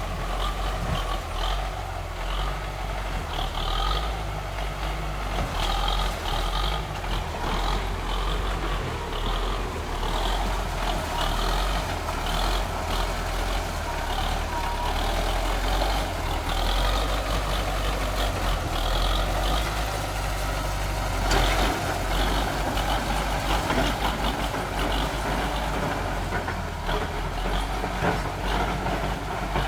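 DT-75 crawler tractor's diesel engine running steadily under load, with irregular short high-pitched clatter over the low rumble.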